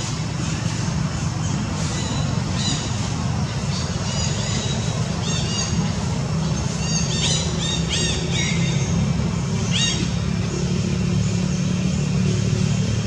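A steady low rumble, like a running engine or passing traffic, under scattered short, high-pitched chirping calls that bend in pitch, bunched together a little after halfway.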